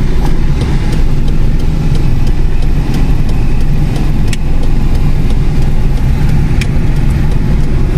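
Small car's engine running, heard from inside the cabin as a steady low hum, with a few faint clicks scattered through it.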